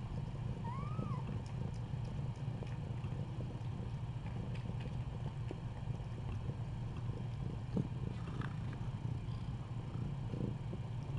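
A nursing mother cat purring steadily, close up. About a second in there is one short squeak that rises and falls in pitch, and a few faint clicks are scattered through.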